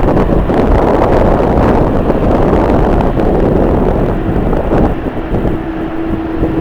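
Strong wind buffeting the microphone, a loud, uneven rumble; a steady hum comes in near the end.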